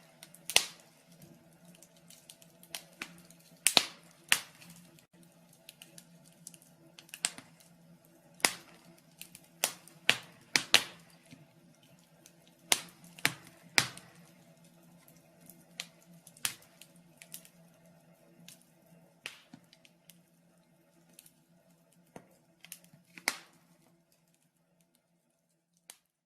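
Wood fire crackling in a fireplace, with irregular sharp pops and snaps over a faint steady low hum. The crackles thin out and stop near the end.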